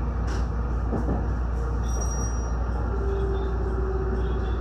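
Electric train running, heard from inside at the front of the train: a steady low rumble with a few faint wheel clicks, and a steady whine coming in about three seconds in.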